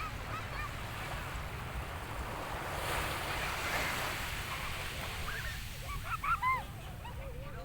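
Sea waves washing on the shore, with wind buffeting the microphone. A few short high-pitched calls come through about six seconds in.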